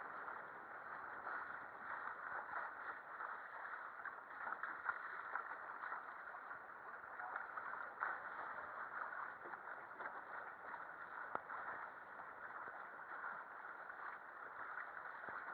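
Steady rush of water with small splashes against a boat's hull.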